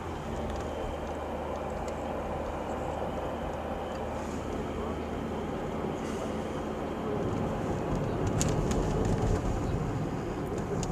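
Steady rumble of a car driving, heard from inside the cabin, with a low drone that gets a little louder after about seven seconds. A couple of faint clicks come at around eight seconds.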